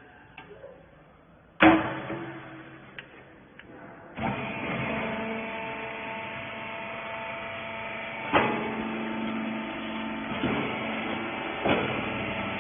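Rags baler machine: a loud metal clank, then about four seconds in its motor and hydraulic pump start and run steadily with a hum, broken by three more knocks.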